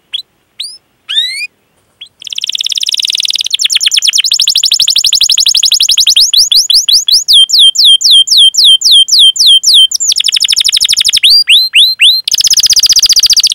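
Domestic canary singing a long rolling song. It opens with a few short rising chirps, then runs into fast trills and a string of repeated sweeping 'cuit cuit' notes at about four a second, and breaks back into a fast trill near the end.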